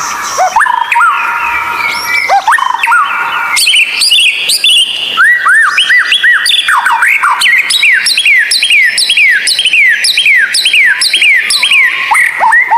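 White-rumped shama song from a masteran recording: held whistles with upward slides, then from about four seconds in a fast repeated run of swooping whistled notes, several a second.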